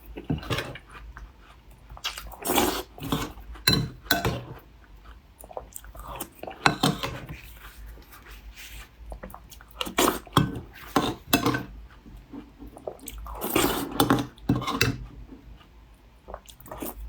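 A person eating close to the microphone, chewing with crunchy bites of a crumbly taosu cookie. It comes in irregular bursts of crunching with short pauses between.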